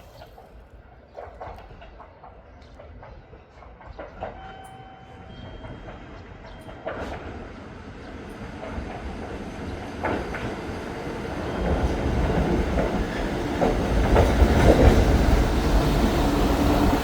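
Diesel railcar approaching and pulling into a station platform, growing steadily louder as it nears, with its wheels clacking over rail joints and its engine rumbling.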